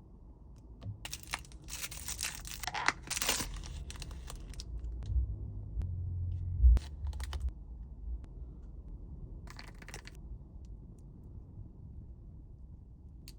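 Plastic and paper candy packaging being torn open and crinkled in several bursts, with low knocks from the package being handled and one louder thump midway.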